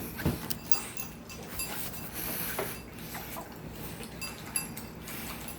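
Dog licking chili from a dish: wet lapping with irregular small clicks and clinks of tongue and dish, and a light knock about a quarter second in.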